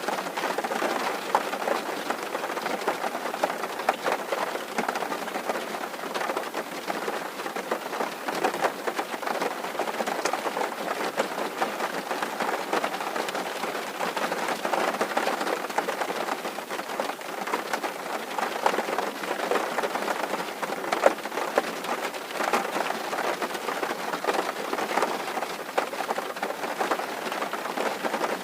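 Steady rain drumming on a tin roof: a dense patter of many small drop hits on sheet metal, with no pauses.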